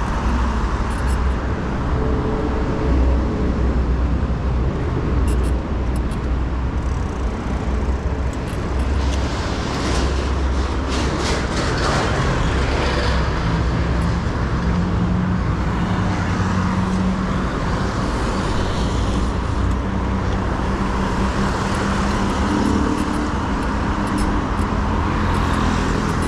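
Road traffic on a busy city avenue: car and bus engines running close by, with a continuous heavy rumble and several engine hums coming and going.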